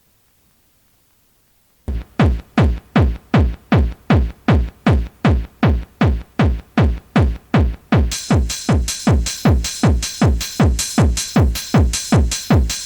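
Hardcore techno from a 1994 mixtape: about two seconds of near silence, then a drum-machine kick drum starts alone on a steady four-to-the-floor beat, each kick dropping in pitch, a little over two a second. About eight seconds in, a hissing hi-hat and cymbal layer joins the kick.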